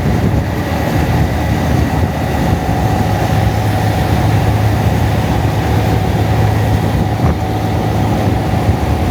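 Honda Monkey motorcycle's single-cylinder engine running at a steady speed while riding, under a constant rush of wind noise on the camera's microphone.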